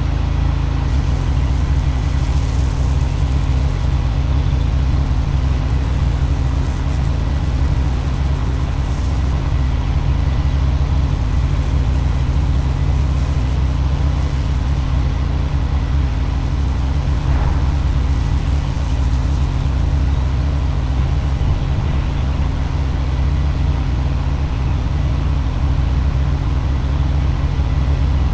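Pressure washer engine running steadily at constant speed, with a steady hiss over it, while chemical is being sprayed to post-treat a cleaned driveway.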